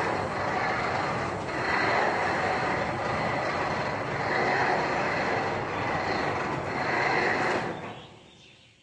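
Machinery running steadily, a continuous rushing noise with a faint high whine, fading out near the end.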